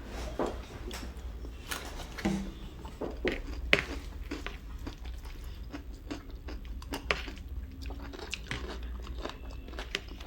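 Close-up chewing and crunching of chatpate, a crunchy puffed-rice snack, with irregular crisp bites, one sharper crunch near the middle.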